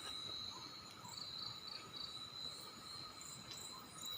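Crickets and other night insects trilling steadily, a high continuous tone with some pulsed chirps over it, and a couple of faint ticks.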